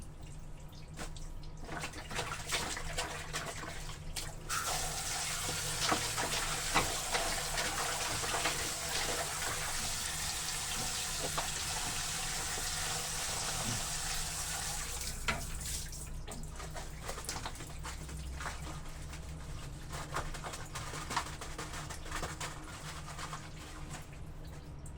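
Water running from a tap into a basin or tub for about ten seconds, starting about four seconds in, with scattered drips and small splashes before and after.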